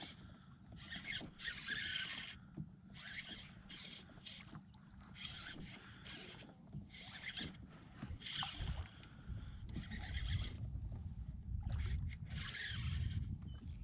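Kayak paddle strokes splashing in the water, a short swish about every second, over a low rumble of wind on the microphone that grows stronger in the second half.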